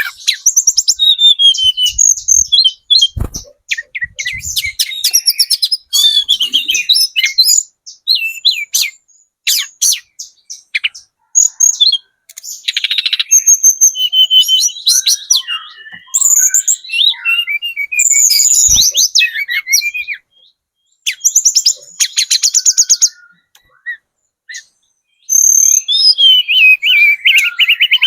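Lesser shortwing (tledekan gunung) singing in full song: loud, fast, varied phrases of high trills and chattering notes, broken by short pauses. Two faint low knocks sound about three and nineteen seconds in.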